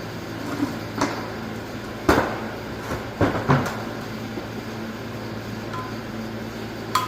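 A few scattered clunks and knocks of metal differential parts being handled on a workbench, about four in all, over steady shop background noise.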